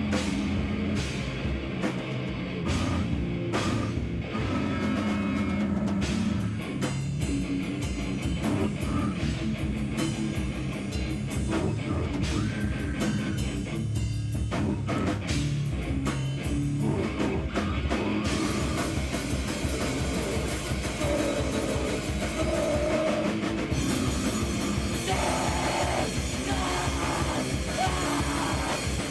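Loud live heavy rock or noise band playing: a drum kit pounding under distorted guitar. The sound turns brighter and denser about two-thirds of the way through.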